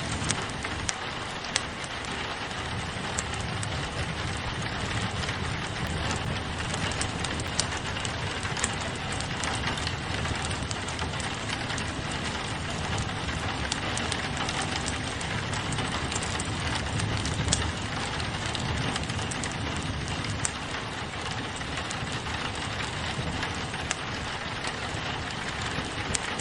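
Steady rain falling on a window, mixed with a crackling wood fire whose small sharp pops come every second or so.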